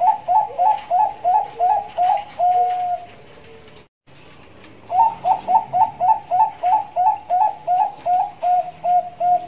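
Bangkok-type zebra dove (perkutut) cooing in the rapid stuttering 'nduduk ngitit' style: two phrases of about a dozen quick staccato coos, each ending in longer drawn-out notes, with a short pause between them.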